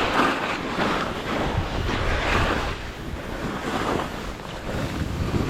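Skis scraping and hissing over firm snow through a run of turns, swelling and fading about once a second, with wind buffeting the action camera's microphone.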